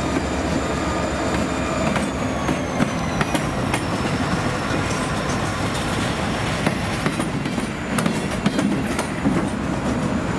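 CSX freight train rolling past close by: the diesel locomotive's low engine hum early on, then gondola cars with a steady rumble of wheels on rail and repeated clicks and clanks. A thin high wheel squeal dips slightly in pitch a couple of seconds in.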